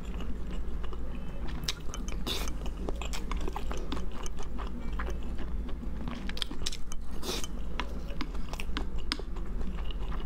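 Close-miked chewing and biting of a mouthful of a stir-fried dish with red chili, full of short wet mouth clicks. There are two louder hissy bursts, about two and a half and seven and a half seconds in.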